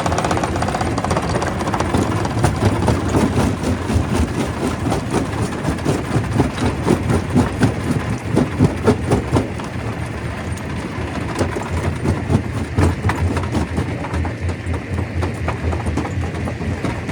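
Stone crusher running: a steady low machine drone under dense, irregular knocks and clatters of rock, busiest in the first half.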